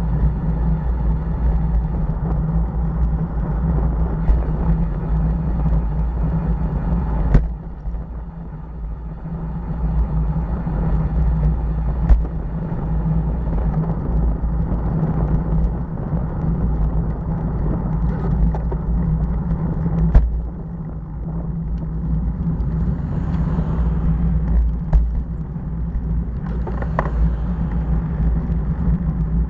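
Motorcycle engine running steadily while riding, with a low wind rumble on the microphone. A few sharp knocks are heard, and the sound drops for a couple of seconds about a quarter of the way in before picking up again.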